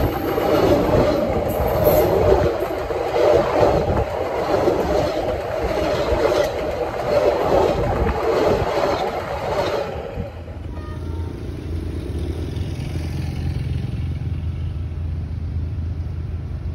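Railway carriages rolling directly overhead, their wheels rumbling and clattering on the rails with sharp clacks now and then. The last carriage clears about ten seconds in and the noise drops suddenly to a low steady rumble.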